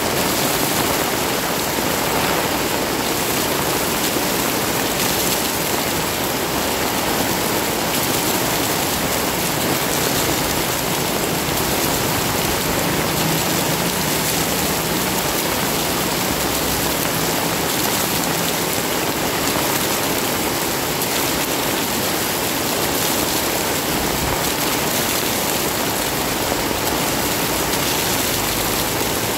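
Heavy rain falling steadily and hard, a dense even hiss with no breaks.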